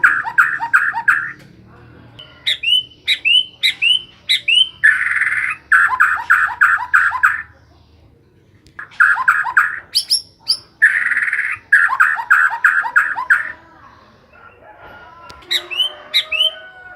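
White-rumped shama singing: bursts of rapid repeated notes and sharp hooked whistles in loud phrases, with short pauses between them.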